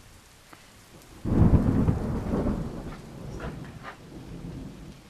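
A thunderclap breaks in suddenly over steady rain about a second in, a deep rumble that dies away over the next three seconds with a few crackles in its tail.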